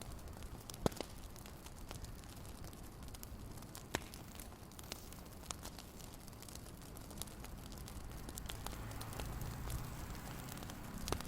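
Wood fire crackling: scattered sharp pops at irregular intervals over a low steady rumble.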